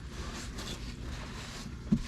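Faint, soft rustling and scraping of small differential parts being handled, with no single loud event.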